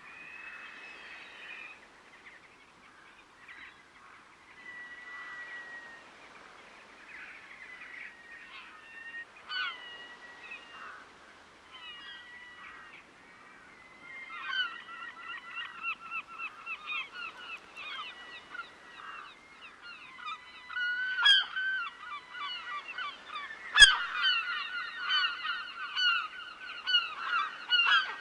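A flock of geese honking, the calls growing denser and louder from about halfway into many overlapping honks. Before that there are scattered bird calls and whistles. A sharp knock comes near the end and is the loudest sound.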